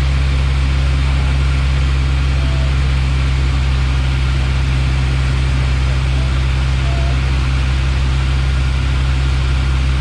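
Steady drone of a Piper Warrior's four-cylinder Lycoming engine and propeller with airflow rush, heard inside the small plane's cockpit. The level holds even throughout.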